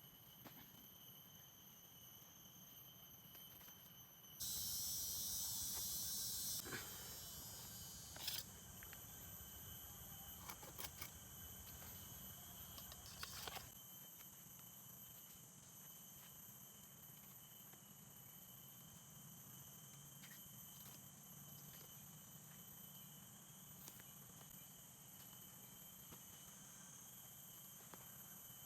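Insects chirring steadily in a forest, in a few thin high tones. About four seconds in comes a loud hiss lasting about two seconds, followed by a few light clicks or knocks over the next several seconds.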